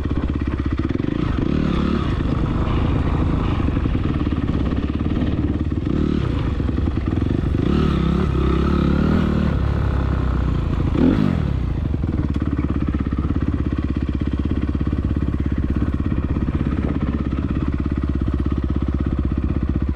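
Honda CRF250R's single-cylinder four-stroke engine running steadily, with a brief swing in engine pitch about eleven seconds in.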